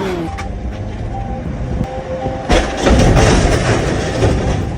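A heavy tow truck rumbles past with its rig rattling, swelling loud about two and a half seconds in for about two seconds, then easing off. A short beep repeats in the background.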